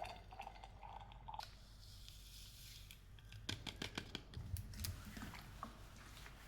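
Faint clicks and light taps from handling a vacuum flask being filled with boiling water, with a quick run of clicks about three and a half seconds in.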